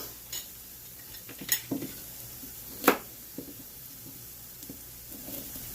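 Scattered clicks and knocks of kitchen utensils against pots or a board, the sharpest about three seconds in, over a steady faint sizzle of a pan on the stove.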